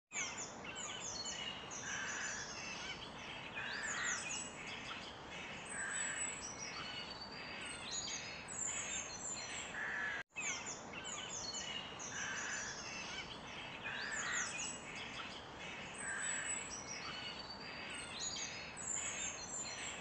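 Several songbirds chirping and whistling in quick, overlapping calls over a faint steady background hiss. The sound cuts out for an instant about halfway through, and the same run of birdsong then plays again.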